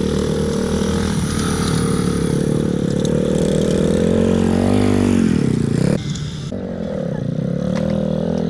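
Pit bike engine running and revving, its pitch rising and falling, with a deep dip about five seconds in. The sound drops off abruptly at about six seconds, and a quieter engine note carries on.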